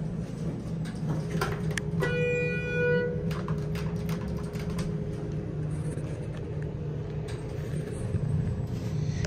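Passenger elevator with a steady low machinery hum and rumble. A few clicks come about one and a half seconds in, followed by a single electronic chime tone lasting about a second.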